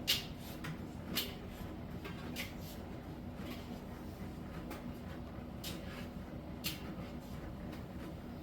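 Miele T1 heat-pump dryer running its Soft Steam cycle in the saturation stage: a steady hum with a low tone under it. Irregular light clicks and knocks come from the drum as the load tumbles, the loudest just after the start and about a second in.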